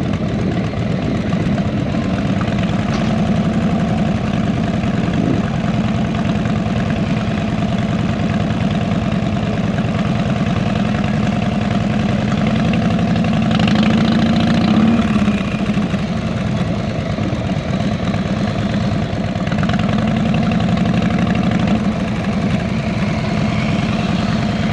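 Harley-Davidson motorcycle's V-twin engine running steadily, briefly a little louder about halfway through.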